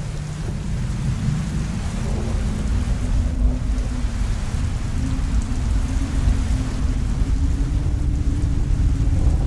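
Steady low rumble of a car driving at speed, heard from inside the closed cabin, with an engine tone slowly rising in pitch and a steady hiss over it.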